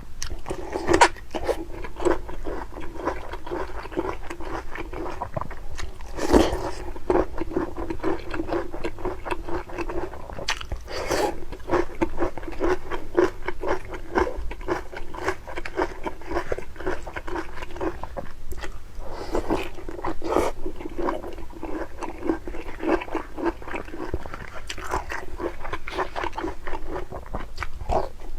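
Close-miked chewing and biting of crunchy food: a steady run of rapid crunches and mouth clicks, with a few louder bites.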